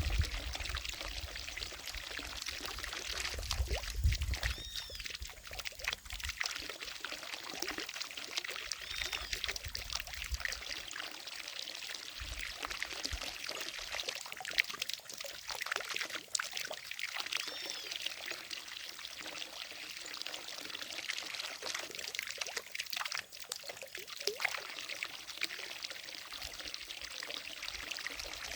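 Water falling from a fountain and splashing steadily into a pond: a continuous pouring, trickling rush.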